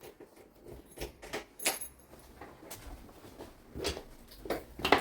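Scattered rustles and light clicks from items being handled, with a sharper knock near the end.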